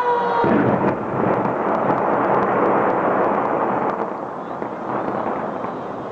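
Fireworks going off in quick succession: a dense rumble of bursts with crackling through it, easing off over the last couple of seconds.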